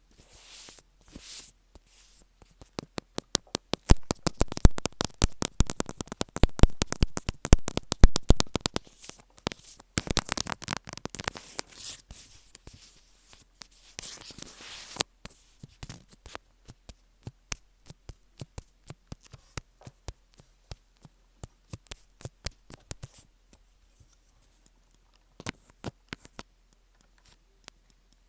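Close-up ASMR tapping and scratching on earphones: rapid crackling clicks that come thick and loud for about ten seconds, then thin out to scattered single ticks.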